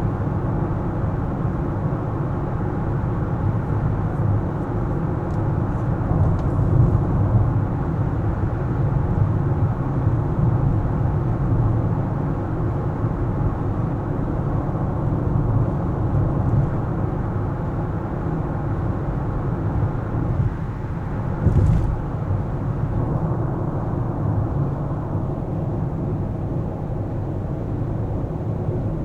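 Car driving on city streets: a steady low rumble of road and engine noise, with one short knock about three-quarters of the way through.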